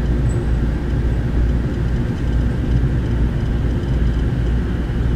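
Passenger train running, a steady low rumble of the moving carriage heard from inside.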